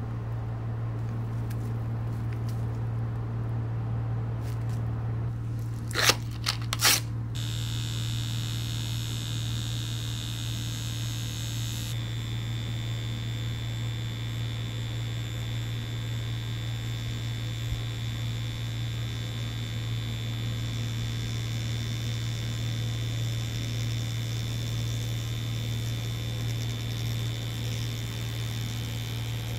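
Mummy Anubis tattoo machine running with a steady buzz. A few sharp clicks come about six seconds in, and a higher-pitched buzz joins the hum about a second later.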